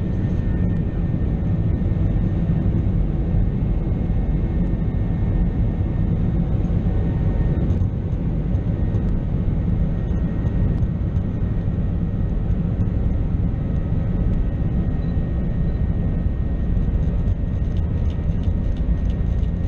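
Steady cabin noise inside an Airbus A320: a constant low rumble of jet engines and airflow, with a faint steady whine above it.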